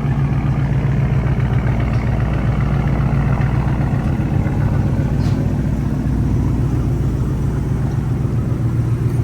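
Ford 5.0 Coyote V8 idling steadily through a true-dual exhaust with an H-to-X crossover pipe and the mufflers and resonators deleted, giving a deep, even idle.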